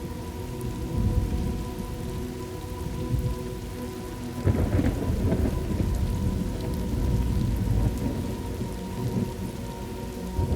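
Thunderstorm ambience: steady rain with low rolling thunder, swelling into a louder thunder rumble with a brief crackle about halfway through.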